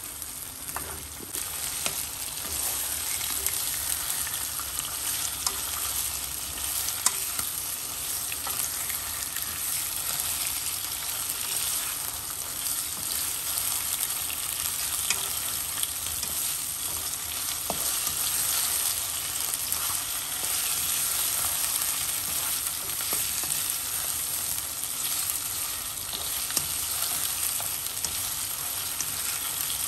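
Chicken and tomatoes sizzling in hot oil in a non-stick wok, stirred with a wooden spatula that knocks against the pan now and then: the bhuna stage of frying down the tomatoes with the chicken. A steady hiss with scattered clicks.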